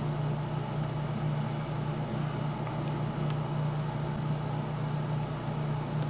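Steady low background hum with a few faint, light clicks of small parts being handled.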